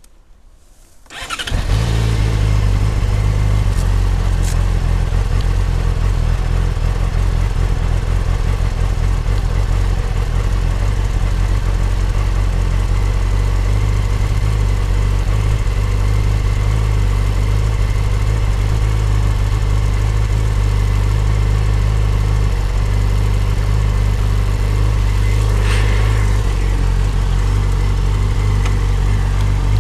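Yamaha YZF-R6 (RJ15) 600 cc inline-four engine starting about a second in, then idling steadily.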